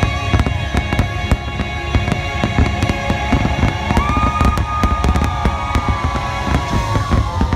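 Dense volley of aerial fireworks bursts and crackles, many bangs in quick irregular succession, with the show's music playing underneath.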